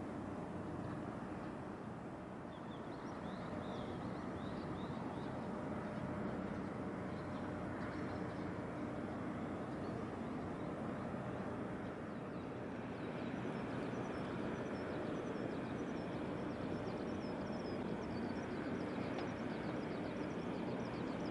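Low, steady drone of a large container ship's engine and machinery with a faint steady hum, while small birds chirp lightly, more often in the second half.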